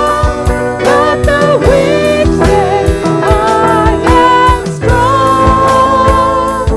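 Worship music with singing: a held, gliding vocal melody over sustained instruments and a steady drum beat.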